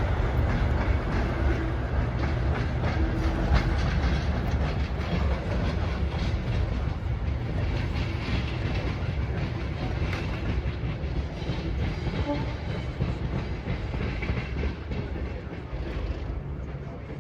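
A train running along the track: a steady rumble of wheels on the rails, growing quieter over the last few seconds.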